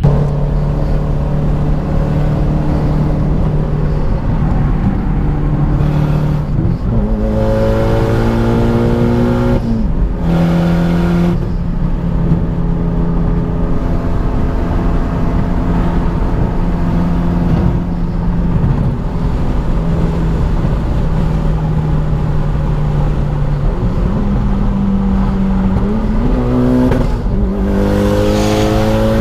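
Mitsubishi Lancer Evolution X's turbocharged four-cylinder engine pulling the car along: it rises in pitch through a gear about seven seconds in, drops at an upshift around ten seconds, runs at a steady pitch for a long stretch, then rises through two more gears near the end with a shift between them.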